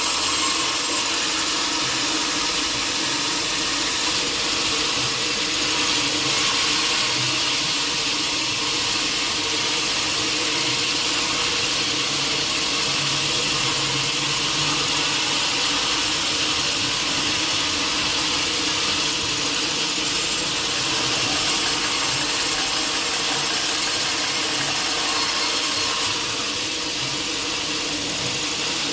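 Sawmill saw and its machinery running steadily while milling teak, a continuous loud mechanical noise with a constant hum that eases slightly near the end.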